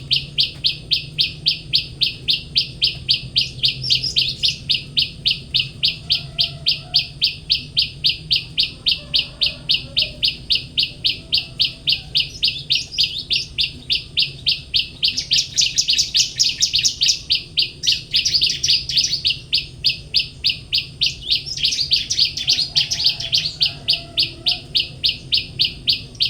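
Small songbirds: one gives a rapid, evenly spaced chirp, about three to four a second, without a break. Bursts of fuller, busier song from another bird join in around the middle and again near the end.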